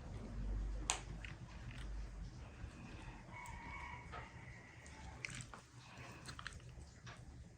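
Domestic fowl calling in a few drawn-out calls a few seconds in, with a sharp click about a second in and scattered light knocks and clicks.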